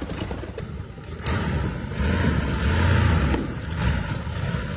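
47-litre BMW V12 aircraft engine of the Brutus car running with a deep rumble. It swells louder about a second in, then eases off near the end.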